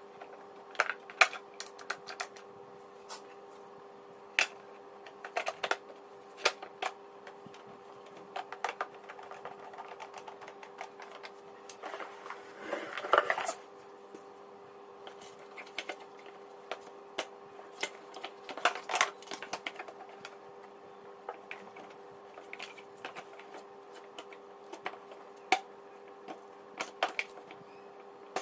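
Irregular light clicks and knocks of the vacuum cleaner's plastic parts being handled and fitted together, with a brief scraping rustle about halfway through, over a faint steady hum.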